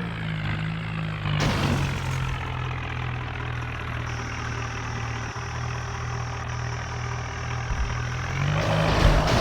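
Swaraj tractor's diesel engine idling steadily, with a brief surge of noise about a second and a half in. It revs up near the end.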